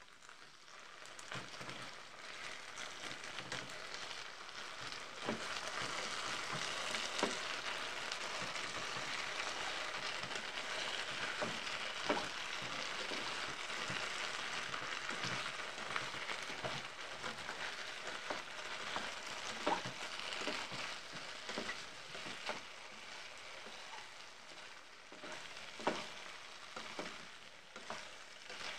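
Potato chunks frying in oil in a deep pan, sizzling steadily, louder after the first few seconds. Now and then a plastic spatula stirs them and knocks against the pan.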